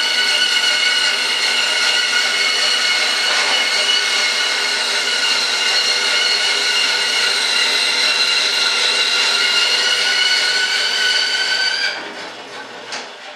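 Small high-speed power tool running at a steady pitch with a high whine, switched off about twelve seconds in, followed by a few light clicks.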